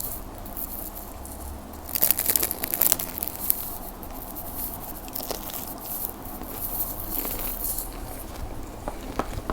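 Crispy fried spring-roll pastry crunching loudly as it is bitten, about two seconds in, then softer crunches as it is chewed.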